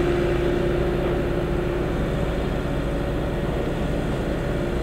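A train running through a station: a steady low rumble with a humming tone that fades out about two seconds in.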